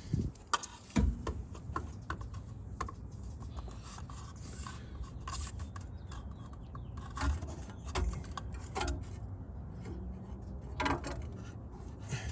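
Irregular clicking and knocking from hand tools and metal parts being handled during installation work, with two louder thumps about a second in.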